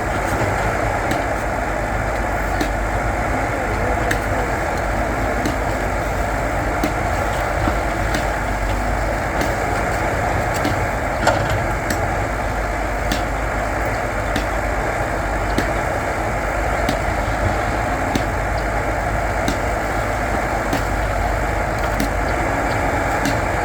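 Backhoe loader's diesel engine running steadily, with faint sharp clicks scattered through it.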